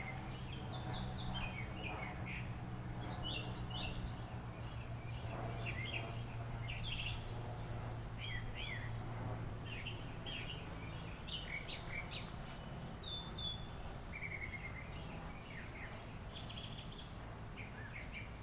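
Small songbirds chirping, with short chirps scattered throughout, over a steady low hum that weakens about two-thirds of the way through.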